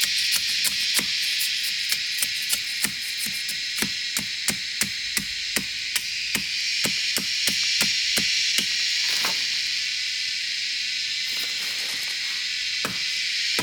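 Repeated chopping strikes, about three a second, that pause about nine seconds in, over a steady high drone of insects.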